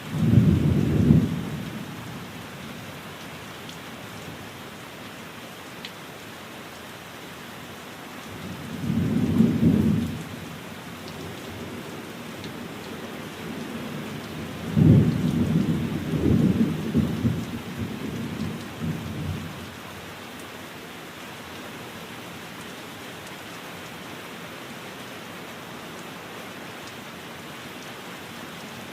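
Steady rain hissing, with three low rolls of thunder: one breaking suddenly at the start, a shorter one about nine seconds in, and a longer, uneven one from about fifteen to twenty seconds in.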